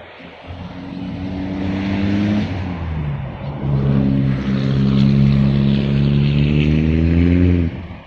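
Radio-controlled model airplane's motor and propeller running at a steady pitch, growing louder. It dips briefly about three seconds in, then comes back louder with a slight rise in pitch and cuts off abruptly near the end.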